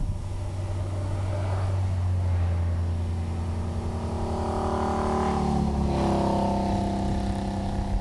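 A motor vehicle's engine running with a steady hum that grows louder and rises in pitch in the second half, as the vehicle accelerates.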